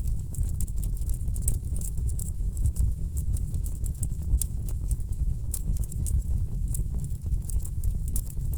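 Log fire crackling: rapid, irregular snaps and pops over a steady low rumble of burning wood.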